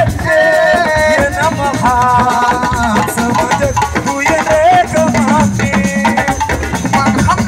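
Live assiko band music: drums and shakers keeping a busy rhythm under a wavering sung melody.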